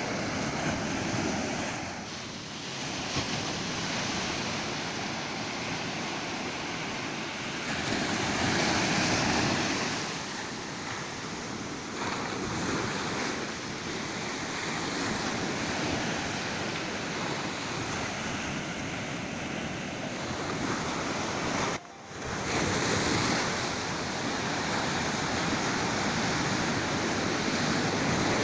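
Ocean surf breaking on a sandy beach, a steady wash of waves rising and falling as each swell comes in. There is a sudden brief dip in the sound about three-quarters of the way through.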